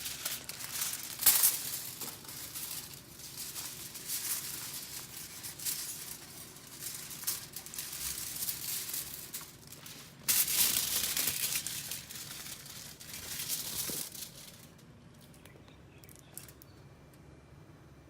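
Aluminium foil being crinkled and handled in irregular crackly bursts. It stops about three seconds before the end.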